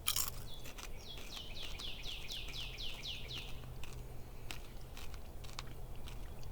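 A songbird singing a run of about ten quick, high, down-slurred notes that lasts about three seconds. A few sharp clicks come in between.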